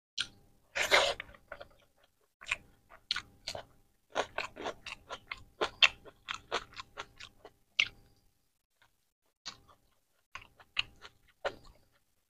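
Close-miked chewing of rice and egg curry: a run of quick wet mouth clicks and smacks, with a louder noisy smack about a second in and a short pause near the eight-second mark.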